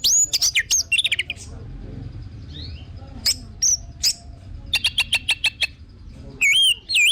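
Orange-headed thrush (anis merah) singing a varied song of loud whistled phrases that slide up and down. About five seconds in comes a quick run of short repeated notes, and more whistles follow near the end.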